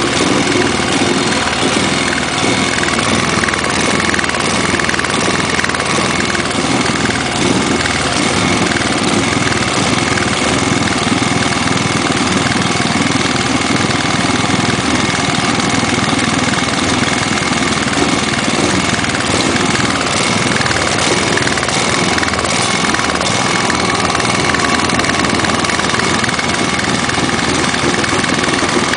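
Robin EY15D small general-purpose engine on a rammer, running at low speed with its speed surging up and down (hunting). The owner puts the hunting down to a lean mixture from the carburettor.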